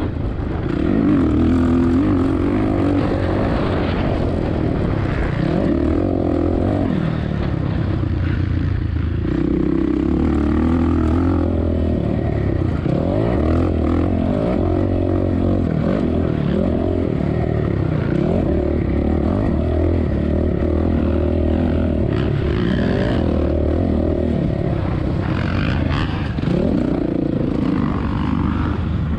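Dirt bike engine, a 2007 Suzuki RM-Z450's four-stroke single, revving up and down over and over as it is ridden around the motocross track, with wind noise on the microphone.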